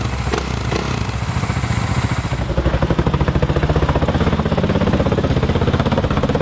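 Dirt bike engine running at low revs with a rapid, even pulsing exhaust beat, which grows louder about two and a half seconds in.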